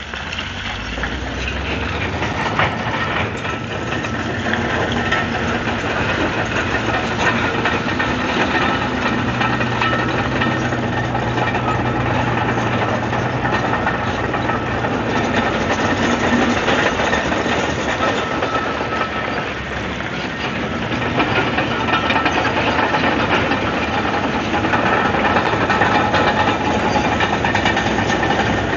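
Komatsu D155AX-7 crawler bulldozer working: its diesel engine running with a steady low drone under a dense, continuous rattle and clatter of steel tracks and rock. It grows louder over the first couple of seconds.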